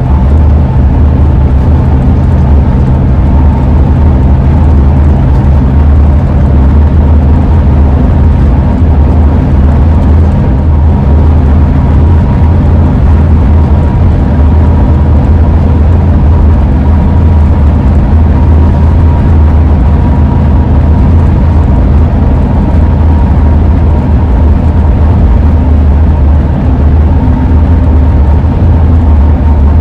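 Ford E-350 van driving at steady speed, with a loud, even rumble of engine and road noise. A faint steady high tone sits on top, the wind howl from the roof rack.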